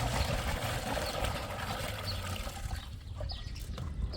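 Steady hiss of water that fades out about three seconds in, followed by a few short, high bird chirps.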